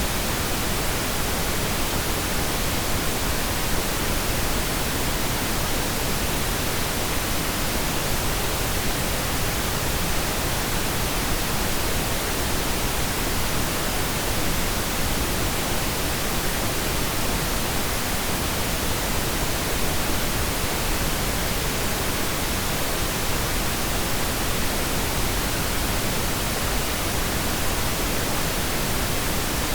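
Steady pink noise: an even, unchanging hiss spread across the whole range, with no distinct events.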